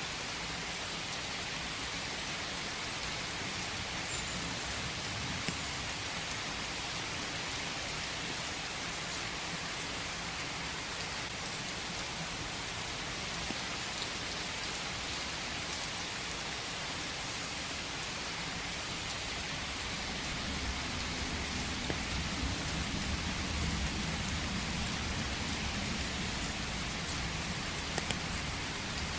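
Steady rain falling in a forest, a dense even hiss of drops with faint scattered ticks. In the last third a low rumble swells up and then eases.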